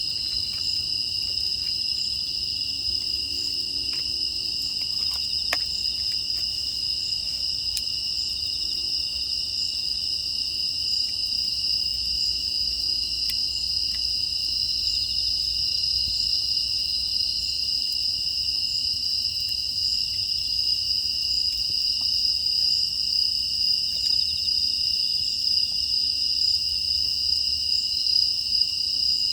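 A steady, continuous chorus of grass insects chirping at a high pitch, with a few faint clicks in the first half.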